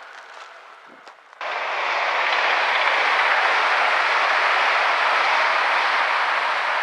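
A train passing close by at speed, a loud steady rushing of wheels on rail that starts abruptly about a second and a half in. Before it there is quieter background noise with a few faint clicks.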